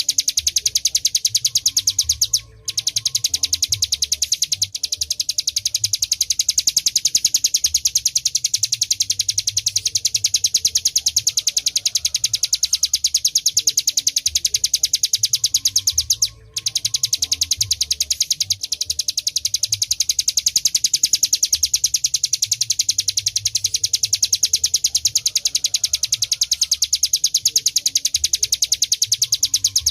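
Ciblek gunung (a prinia) singing a continuous, very fast buzzing trill, the rapid 'ngebren' chatter, high-pitched and unbroken except for two brief stops, about two seconds in and about halfway through.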